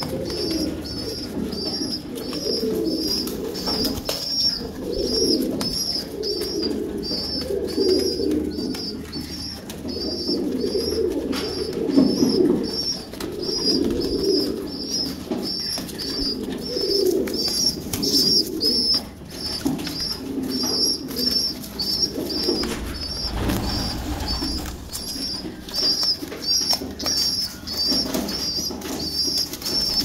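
A bird cooing in low, repeated calls, over a high chirp repeating evenly about one and a half times a second.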